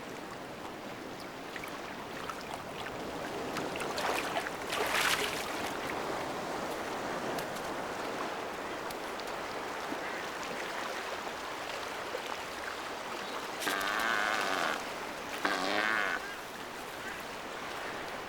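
Steady wash of surf on a rocky shore, with a short louder rush of water about four seconds in. Two harsh, wavering animal calls come close together near the end, each about a second long.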